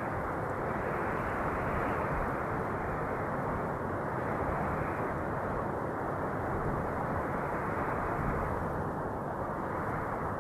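Wind blowing steadily: a dull, rushing noise that swells and eases slightly every few seconds.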